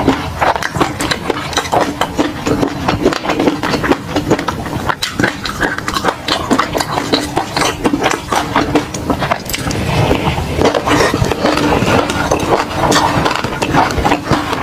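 Close-miked wet chewing and lip-smacking, a rapid irregular stream of clicks and smacks from eating food in peanut sauce.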